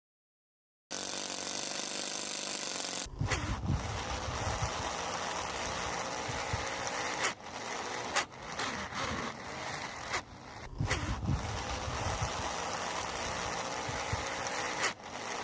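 Small motor of a homemade mini toy tractor running, with low rumbling and a few sharp clicks.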